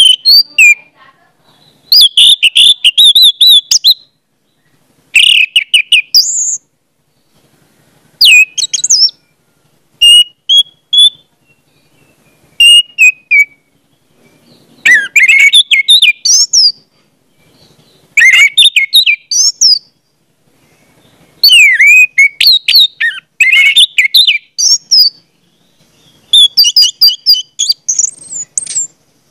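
A bird singing: phrases of quick, high chirps and whistles, repeated every couple of seconds with short pauses between them.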